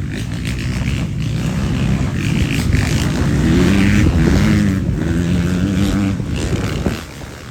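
Motocross bikes' engines revving as they race past, the pitch rising and falling with the throttle. The sound swells to its loudest in the middle, then drops off sharply about seven seconds in.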